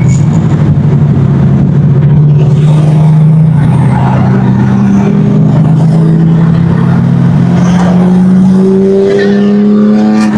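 Car engine pulling steadily under load for the whole stretch, its note climbing slowly and evenly as the revs rise, with road and tyre noise underneath.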